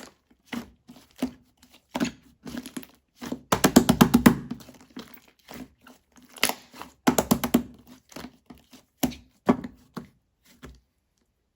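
Slime with clay mixed in being squeezed and pressed by hand, giving irregular sticky pops and clicks, with quick runs of small crackling pops about three and a half seconds in and again about seven seconds in.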